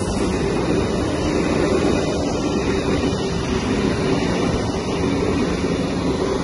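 A Sydney Trains K-set double-deck electric train passing along the platform at speed: a steady, loud running noise of wheels on rail with a low motor hum underneath.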